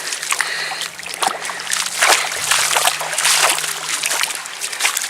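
Irregular splashing in shallow river water, a run of uneven splashes and sloshes.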